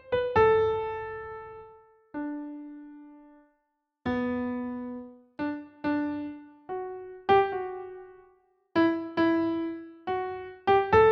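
Slow, sparse piano music: single notes struck one at a time, each ringing out and fading, with brief silences between phrases.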